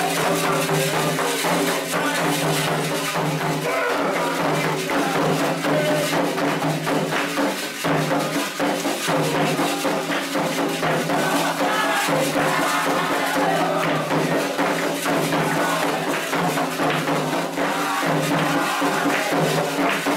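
Candomblé ceremonial music for Xangô: continuous drumming with shaken and struck percussion over sustained tones.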